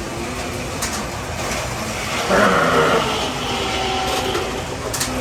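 Carrera 1/32 slot race trucks whirring around a plastic track, their small electric motors and tyres making a steady running noise. A brief louder sound rises over it a little over two seconds in.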